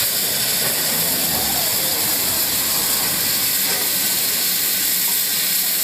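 Steam locomotive letting off a loud, steady hiss of steam.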